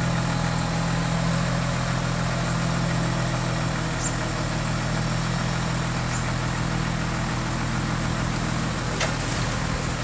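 Diesel engine of a heavy construction machine idling steadily, with a brief click near the end.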